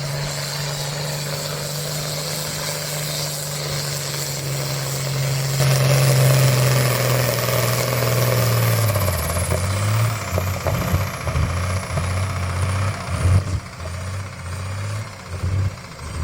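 A tractor-pull tractor's engine runs hard at high, steady revs. About nine seconds in the revs drop and it settles into a lower, uneven, pulsing run, while a high whine falls away.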